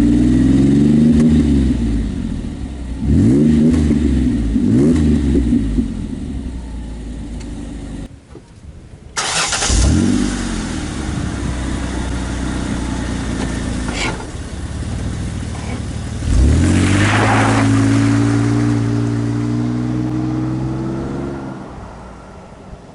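2004 Ford Explorer Sport Trac's 4.0 L V6 running through a new Magnaflow muffler and side-exit dual tip exhaust, blipped up and back down three times in the first few seconds. After a short drop-out it idles, then near the middle revs up and holds a steady higher note before dropping away near the end.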